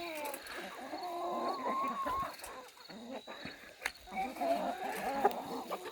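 Chickens calling: drawn-out, wavering hen calls in two stretches, with scattered clicks and scratches in between.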